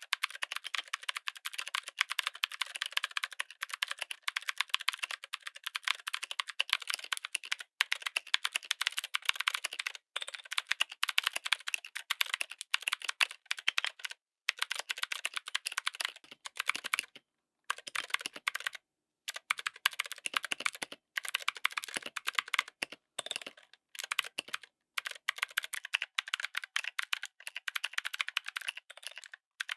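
Fast typing on a mechanical keyboard fitted with clicky switches: a dense stream of sharp key clicks, broken by a few short pauses and a longer break about two-thirds of the way through.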